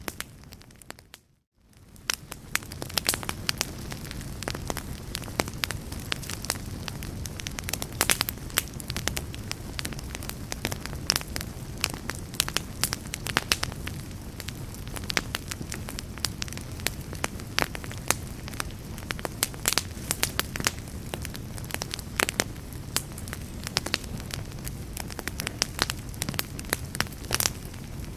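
Fireplace fire crackling: a steady low rumble of flames with frequent sharp pops and snaps. Near the start the sound briefly drops almost to silence, then fades back in.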